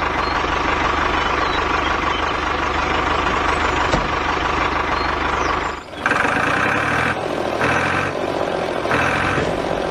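A motor running steadily with a low hum for about six seconds, then a short break and a different engine-like running sound with three spaced high beeps.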